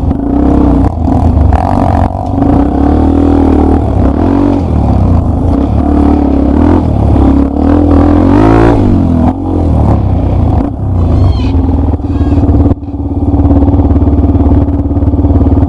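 Single-cylinder enduro trail motorcycle engine under way, its revs rising and falling repeatedly with the throttle, with a sharp climb in revs about eight seconds in. It then holds steady revs near the end.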